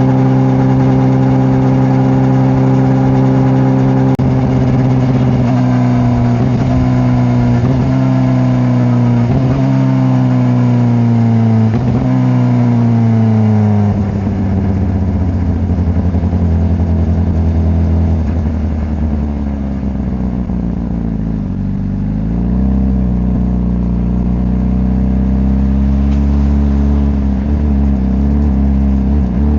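Honda CBR600RR's inline-four engine cruising at steady revs, then slowing with its pitch falling in several steps, and then running lower and steady, dipping briefly and picking up again.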